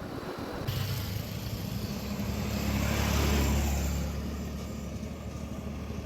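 An engine running steadily, growing louder toward the middle and then easing off slightly.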